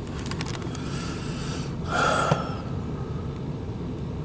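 Steady low vehicle rumble, with a few light clicks near the start and a short snort-like breath about two seconds in.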